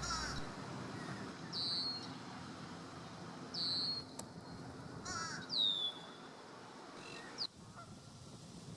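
Wild monk parakeets (Quaker parrots) giving short, harsh squawks, about four calls each sliding down in pitch, over a steady outdoor background hum.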